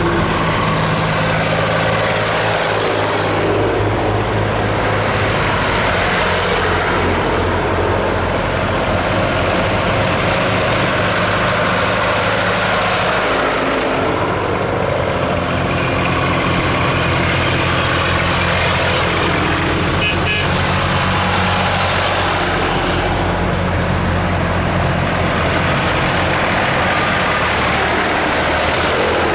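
Vehicle engines running steadily, a low engine note that changes pitch every few seconds as engines idle and rev.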